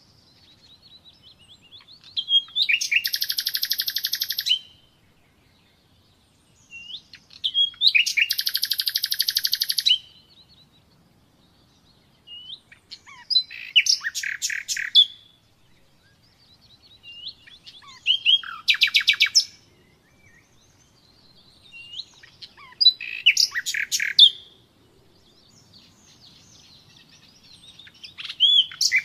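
Common nightingale singing: about six phrases a few seconds apart, each a couple of seconds of rapid repeated notes, some as fast trills and some as quick rattling note series, often opening with a few short whistles.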